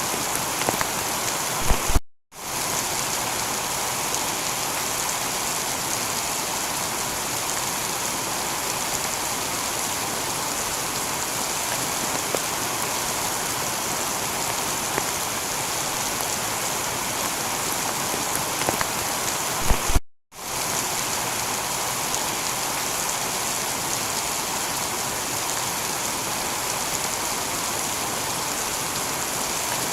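Steady heavy rain falling on a tiled roof, an even hiss with scattered drips. The sound cuts out briefly twice, about two seconds in and again about twenty seconds in.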